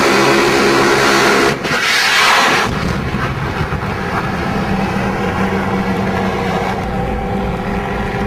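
Helicopter running, a steady engine hum, with a harsh burst of noise about a second and a half in that lasts about a second.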